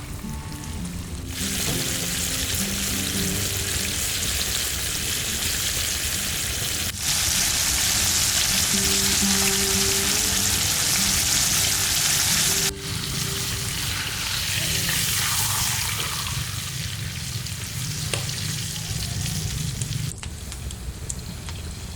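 Fish sizzling as it fries in hot oil: a steady hiss that starts about a second in, is loudest in the middle and stops shortly before the end, with soft background music underneath.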